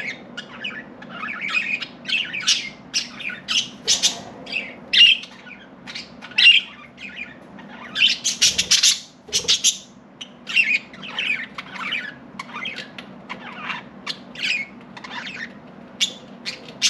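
Several budgerigars chirping and chattering in a continuous stream of short, quick calls, with a louder, squawkier flurry about eight seconds in. A faint steady low hum runs underneath.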